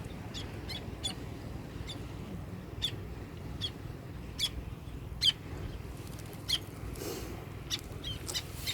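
Short, high bird chirps repeated at irregular intervals, about one or two a second, over a steady low background rumble.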